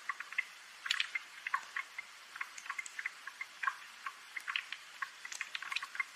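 Gentle steady rain with irregular light drips and ticks, several each second.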